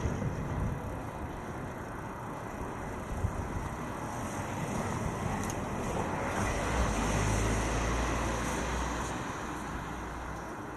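Road and wind noise of a bicycle riding through city traffic, with a motor vehicle's low rumble swelling from about six to nine seconds in and fading again.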